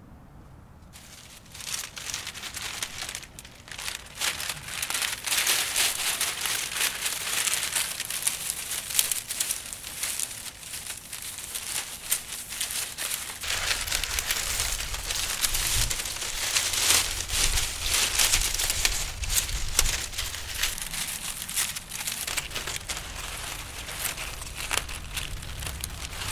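Dry cattail leaves crinkling and rustling as they are handled, a dense crackly rustle that starts about a second in. A low rumble joins it for several seconds in the middle.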